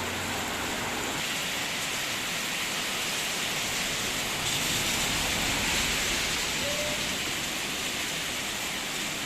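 Steady hiss of heavy rain, swelling a little louder about halfway through.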